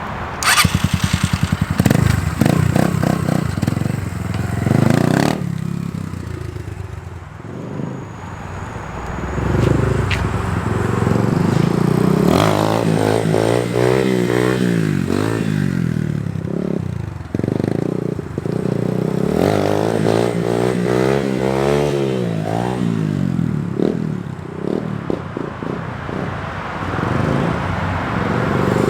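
Small dirt bike engine revving up and down in first gear for wheelies, with two long rises and falls in pitch past the middle and some clatter from the bike.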